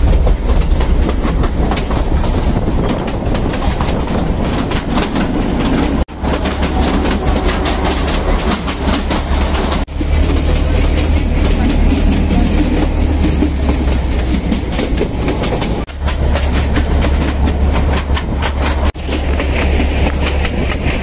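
Kangra Valley Railway narrow-gauge train running, heard from aboard: a steady low rumble with the wheels clattering over the rail joints.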